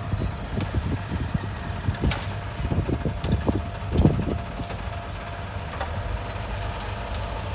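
Heavy diesel earthmoving machinery running with a steady low drone, with a run of irregular metallic clanks and knocks over the first few seconds, the loudest about four seconds in, then running steadily.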